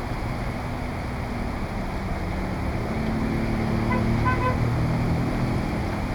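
Heavy rain and wind hiss, with a vehicle engine passing close by and a few short horn beeps about four seconds in.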